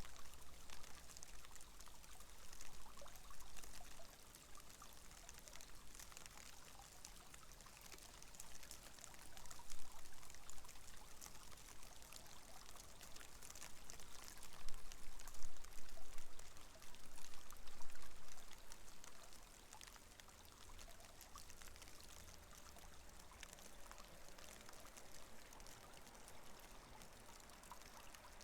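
Water running and pouring along a drainage canal that carries off rain and snowmelt, a steady splashing hiss that grows louder for several seconds in the middle.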